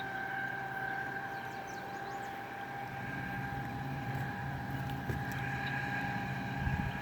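Outboard motor of an 8 ft mini speed boat running steadily at speed: an even, pitched whine.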